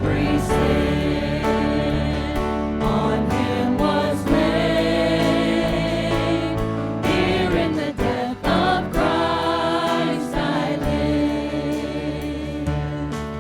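A group of voices singing a worship song together with instrumental accompaniment, held up by sustained bass notes.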